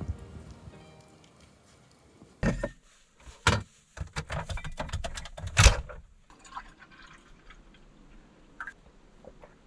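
Hot-spring bath water splashing and pouring in a few separate bursts, the loudest about halfway through, then a few faint drips and knocks.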